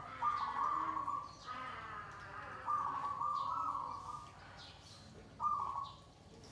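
Zebra dove (perkutut) cooing: several phrases of rolling, pitched notes at about one pitch, then a pause and one short phrase near the end.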